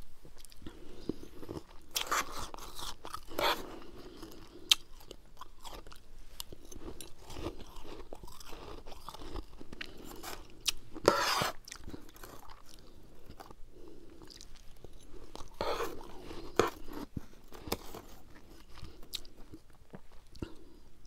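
Close-miked chewing and crunching of a mouthful of freezer frost, a run of crisp crackles and clicks with three louder crunching bursts spread through.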